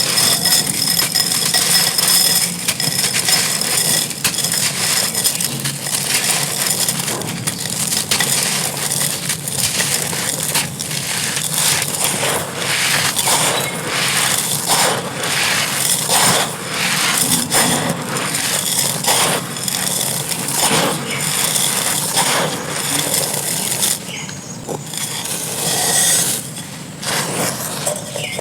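Dry clay pot and gritty sand crumbling: a dense, irregular run of sharp crunches and crackles, easing off briefly near the end before picking up again.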